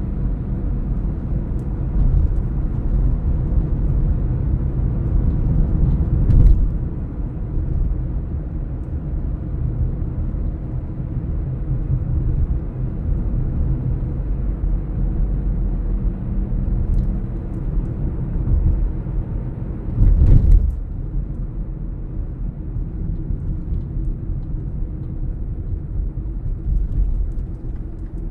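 Car driving, heard from inside the cabin: a steady low engine and road rumble, with two brief thumps, one about six seconds in and one about twenty seconds in.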